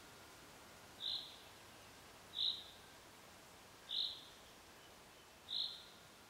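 A bird giving a short, high single call four times, about every second and a half, over faint forest background.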